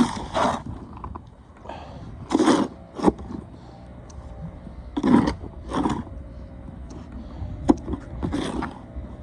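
Snow shovel scraping and scooping snow in repeated short strokes, several in quick succession.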